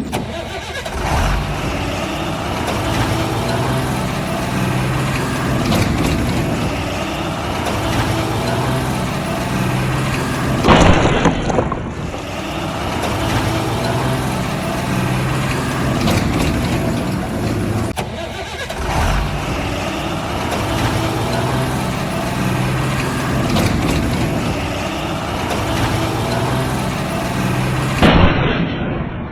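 Heavy truck engine running steadily, with short louder surges about a third of the way in and near the end. The sound repeats like a looped engine sound effect.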